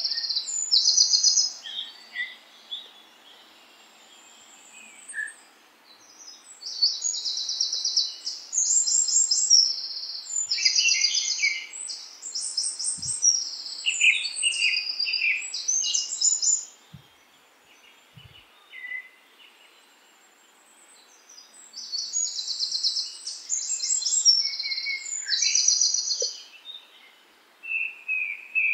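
Songbird song: bouts of fast, high-pitched trills and chirps lasting several seconds, broken by pauses of a few seconds.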